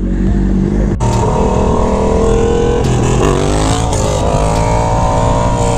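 Motorcycle engine running at steady high revs. Its pitch dips briefly about three seconds in, then holds steady again.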